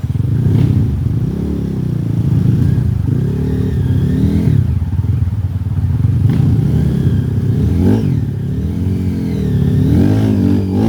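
Off-road dirt bike engine revved over and over, its pitch rising and falling about once a second.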